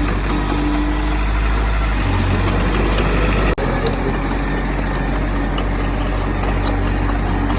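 Heavy earthmoving machinery's diesel engine running steadily. Its low note shifts about two seconds in, and the sound cuts out for an instant about three and a half seconds in.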